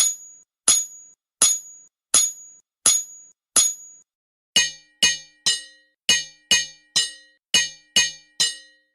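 Hammer blows on metal, anvil-like clanks each ringing briefly, evenly spaced about every 0.7 s. About four and a half seconds in, the strikes come faster, about two a second, with a lower, fuller ring.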